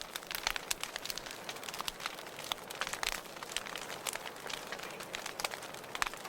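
Wood fire crackling in a fireplace: frequent irregular snaps and pops over a soft steady hiss of burning.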